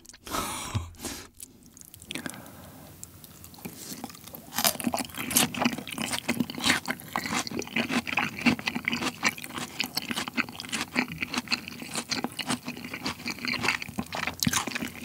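Close-miked chewing of a mouthful of Korean raw beef tartare (yukhoe): wet smacks and soft crunches, sparse at first and growing denser and louder from about four seconds in.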